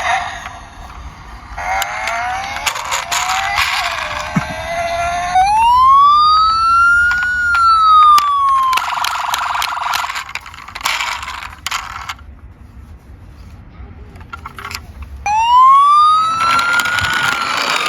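Police siren wailing, its pitch rising and then falling, twice, alternating with loud rattling and clattering of small toy cars rolling down a slope.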